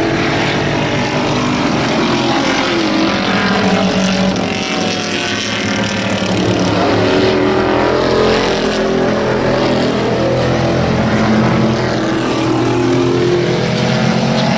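Several hobby-class race trucks running together in a heat race, their engines at race speed overlapping at a steady level, with pitches shifting as individual trucks pass.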